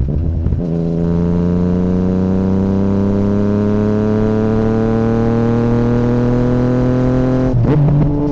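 2017 Yamaha MT-09's three-cylinder engine through an Akrapovic Racing Line carbon full exhaust with the dB killer removed, pulling steadily under throttle while the note rises slowly. The note breaks briefly near the start and again near the end at a gear change, after which the pitch drops.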